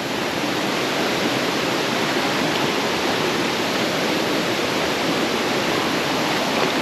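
Small mountain waterfall rushing steadily.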